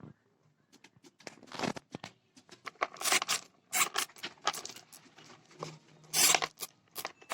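Irregular scratching and crinkling noises with sharp clicks, starting about a second in.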